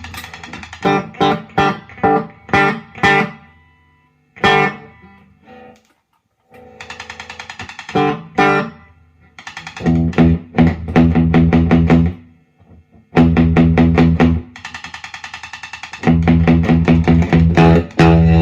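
Electric guitar played through a Fender Deluxe Reverb valve amp: a run of short strummed chords with brief pauses, then longer ringing chords in the second half.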